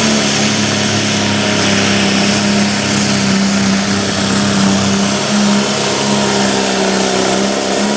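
Light limited class pulling tractor, with an engine of up to 480 cubic inches, running at full power at a steady high pitch as it drags the weight-transfer sled down the track.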